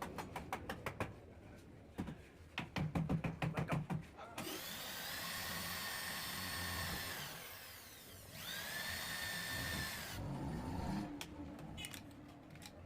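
Handheld electric power tool running in two bursts of a few seconds, each spinning up to a steady whine and winding down again, used in working over a refrigerator's metal body. Before it come quick runs of rapid light tapping.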